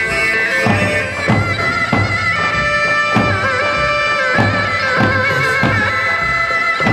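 Halay folk dance music: a loud, ornamented reedy wind melody held over a regular drum beat.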